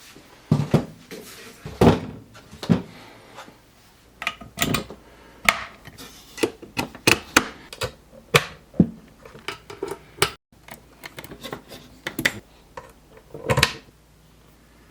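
Irregular knocks and clicks, well over a dozen, spaced unevenly about half a second to a second apart, stopping about a second before the end.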